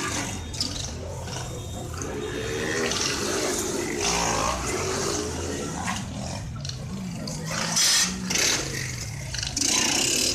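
Rushing noise with a low engine rumble underneath, as of car engines running, with a brief louder surge about eight seconds in.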